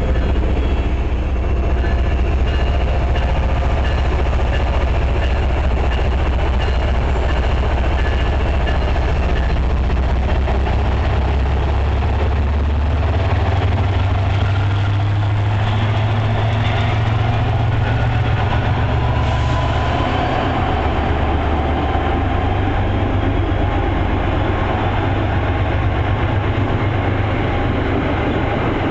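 MBTA commuter rail diesel locomotive running loud and steady close by, a deep engine rumble whose pitch steps up about halfway through as the engine revs higher.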